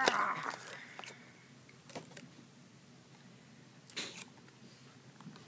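Plastic toy figures being handled and knocked against each other and the tabletop: a brief rustle at the start, then a few separate knocks about two and four seconds in, with quiet between.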